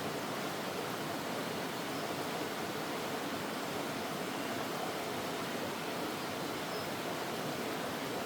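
Mountain stream rushing steadily over rocks, an even flow with no change in level.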